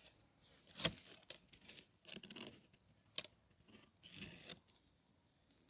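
Faint rustling and crackling of leaves and twigs, with sharp clicks about one second and three seconds in.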